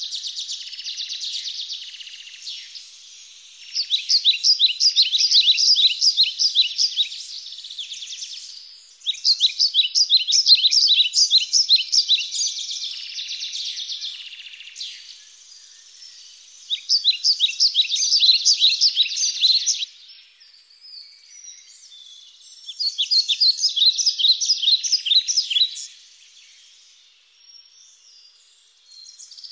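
Forest birds chirping: four bursts of rapid, high-pitched chirps, each lasting about three seconds and coming roughly every six seconds, with fainter chirping between them.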